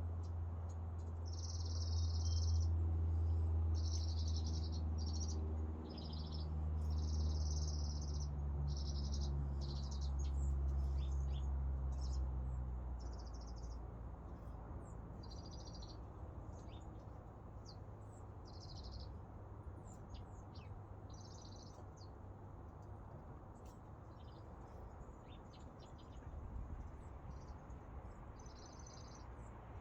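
Small birds chirping in repeated short, high bursts and quick notes. A louder low, steady hum fills the first half and fades away about halfway through.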